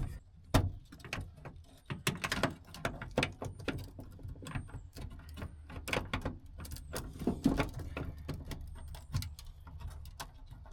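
Irregular clicks, knocks and rattles of a Mk1 Volkswagen Rabbit's tail light parts being handled and pulled off by hand.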